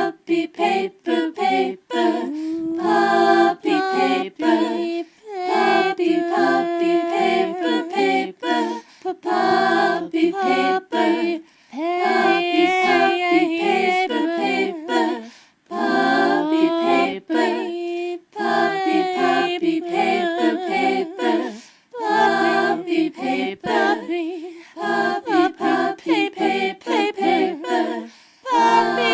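A voice singing a cappella in short phrases with brief gaps between them.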